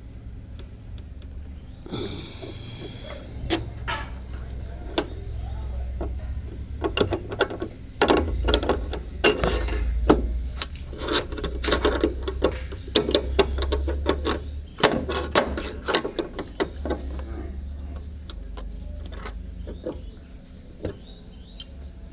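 Metal tool work on a loose bolt: a spanner or ratchet clicking and clinking in irregular runs, over a steady low hum.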